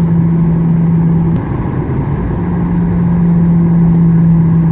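Boeing 737-800 cabin noise: a loud, steady drone from the CFM56 engines and airflow, with a constant low hum. A little over a second in there is a single click, and the hum drops out for about a second before it returns.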